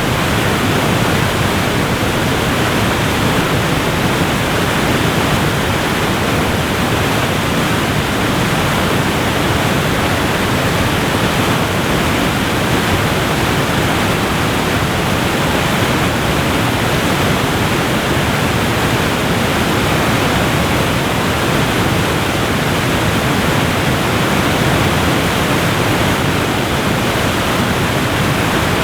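Waterfall rushing in a steady, loud, even wash of noise, with no changes or separate events.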